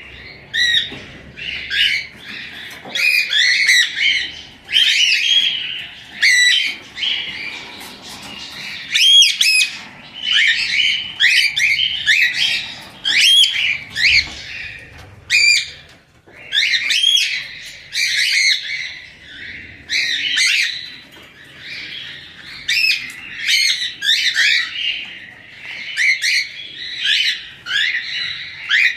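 A flock of rosellas and cockatiels calling together: a dense, overlapping run of loud squawks and chirps, several a second, with only brief lulls.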